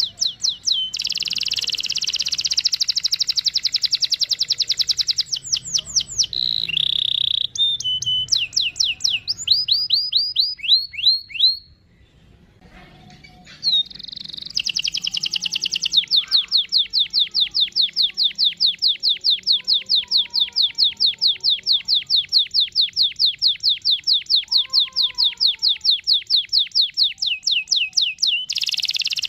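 Domestic canary singing long rolling trills, strings of fast repeated high notes. A brief pause comes near the middle, followed by one long, even trill.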